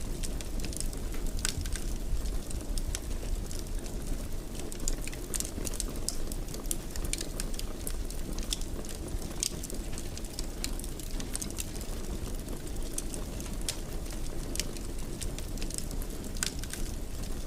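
Wood fire burning in a fireplace: a steady low rumble with irregular crackles and pops throughout.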